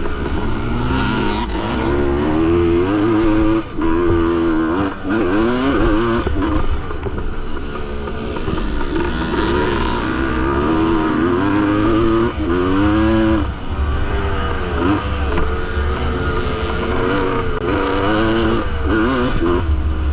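1973 Yamaha MX250's two-stroke single-cylinder engine racing, its pitch rising and falling over and over as the throttle opens and closes, over a steady low rumble.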